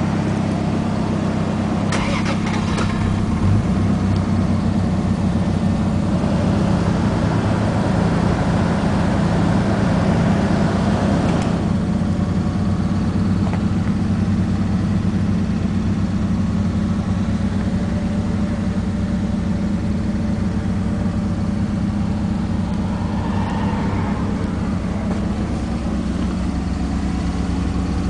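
Toyota Supra's 2JZ-GTE twin-turbo inline-six idling steadily.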